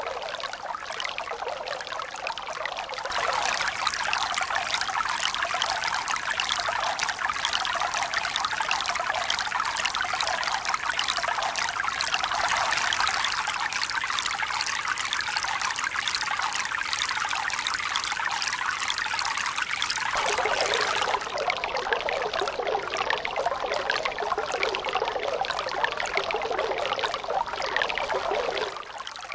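Running water pouring and splashing in a steady rush. It turns abruptly louder and brighter about three seconds in, shifts again about two-thirds of the way through, and drops back suddenly near the end.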